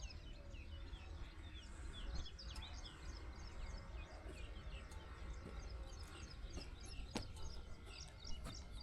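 Many small birds chirping and calling in quick short notes, over a faint low rumble. A single sharp click about seven seconds in.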